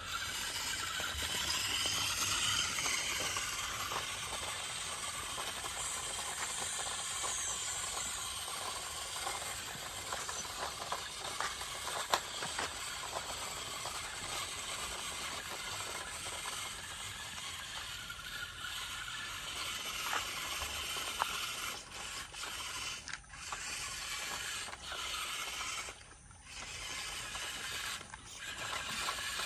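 Small electric motor and plastic gearbox of a remote-control toy tractor whirring as it runs, with scattered clicks. It cuts out briefly and starts again several times near the end.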